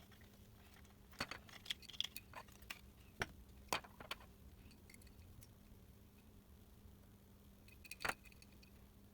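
Scattered light clicks and taps of small parts and hand tools being handled. They come thick in the first four seconds, with one more click near the end.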